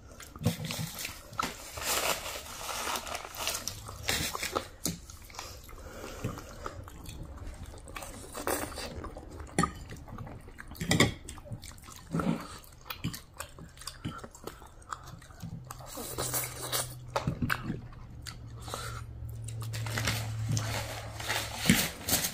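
Close-up chewing, biting and crunching as two people eat chicken wings and noodles: irregular wet clicks and crunches with no speech. A low steady hum comes in during the second half.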